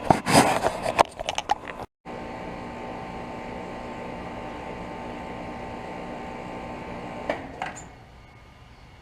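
Brief loud rustling and knocking, then a Rheem Value Series 3-ton air conditioner condenser running with a steady hum. About seven seconds in, a couple of clicks and the unit shuts down: the hum drops away to a much quieter background.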